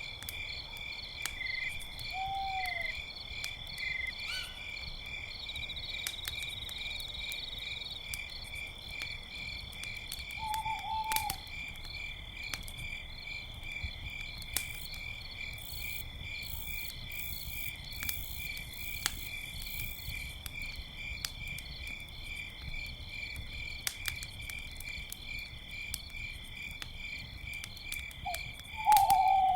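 Crickets chirping in a steady, pulsing chorus, with a campfire crackling in scattered sharp pops. An owl gives short hoots a couple of seconds in and around ten seconds in, and louder ones near the end.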